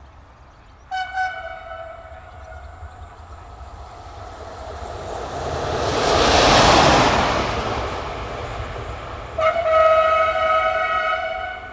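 A train passes at speed, its rush of noise swelling to a peak in the middle and fading, while it sounds its horn: a short blast about a second in and a longer one near the end.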